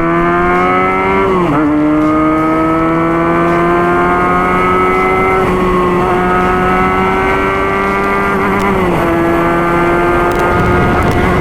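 Benelli TNT 300's parallel-twin engine through an IXIL X60 slip-on exhaust while riding, pulling steadily with its pitch slowly rising. The pitch drops sharply at two upshifts, about a second and a half in and again near the end.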